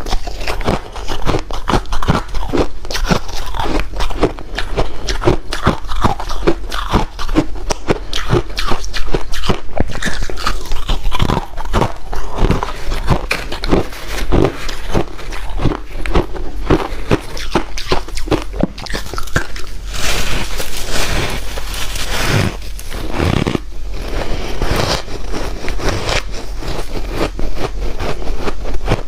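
White ice being bitten and chewed close to the microphone: a dense, continuous stream of crisp crunches and crackles, turning softer and hissier for a few seconds about twenty seconds in.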